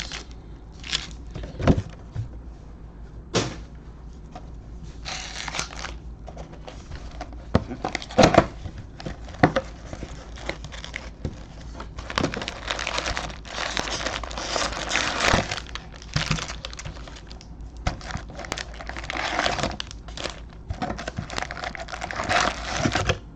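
Plastic wrapping on a box of trading card packs crinkling and tearing as it is handled and opened, with irregular rustles and a few light knocks.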